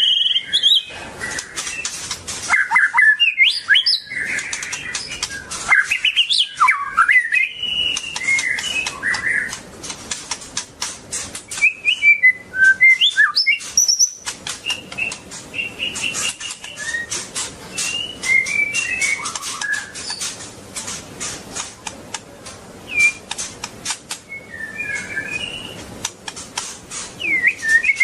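White-rumped shama singing: phrases of whistled notes that slide up and down, broken by short pauses, over a rapid clicking that runs throughout.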